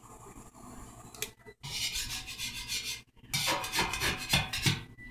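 Metal scraper scraping heat-softened paint and decal off a motorcycle gas tank, in two long passes, the first starting about a second and a half in and the second a little after the middle.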